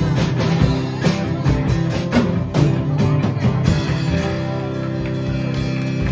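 A live band playing a guitar-led rock song. The beat stops about four seconds in and a final chord is left ringing.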